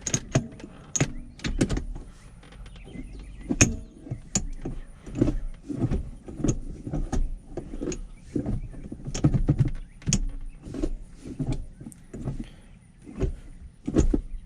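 Irregular clicks, knocks and rubbing as a shift knob is screwed down onto a manual gear shifter's threads by hand.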